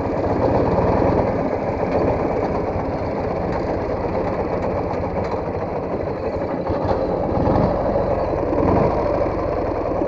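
Motorcycle engine running steadily, a dense, even firing beat with no change in pace.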